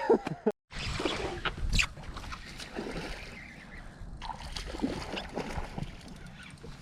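Water splashing and sloshing around a small boat, with a sharp splash about two seconds in.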